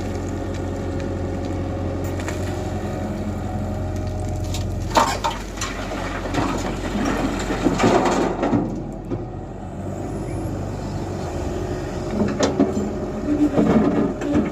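A Tata Hitachi EX120 tracked excavator's engine runs steadily. From about five seconds in, and again near the end, irregular clattering and crunching break in as its bucket works and loads material into a truck.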